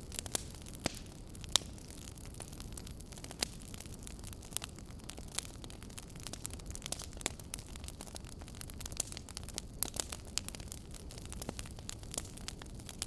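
Wood fire crackling in a fireplace: irregular sharp pops and snaps from the burning logs over a steady low rumble and hiss of the flames.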